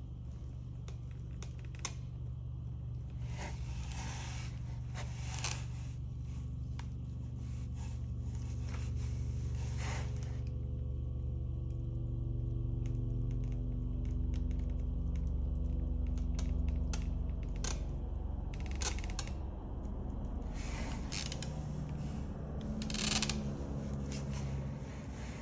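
Soft, low sustained background music with held chords that change every few seconds, under scattered small clicks and scraping sounds of hand tools working on the painting.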